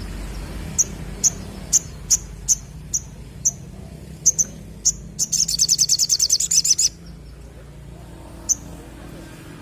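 Spiderhunter (sogok ontong) calling. Sharp, high single chips come about every half second, break into a fast trill of rapid notes for nearly two seconds in the middle, then slow to a few spaced chips.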